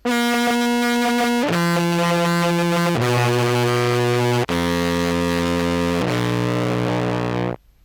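Contrabass clarinet played through fuzz and phaser pedals: five long, buzzy held notes stepping down in pitch, the last a little higher, cutting off suddenly near the end.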